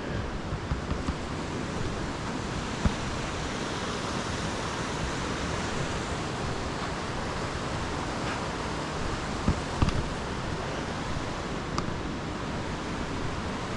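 Rushing water of a waterfall and rapids: a steady, even hiss, with a few faint knocks about three seconds in and again near ten seconds.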